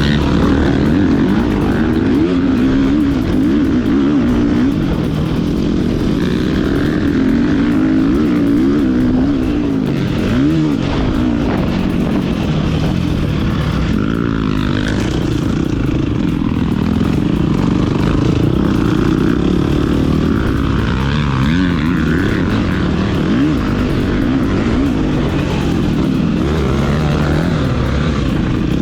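Motocross dirt bike engine being ridden hard, its pitch rising and falling repeatedly as the throttle is opened and shut and the gears change.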